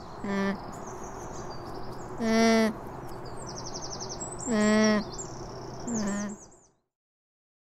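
Alpaca humming: four short, even-pitched hums a second or two apart, over birds chirping and trilling in the background.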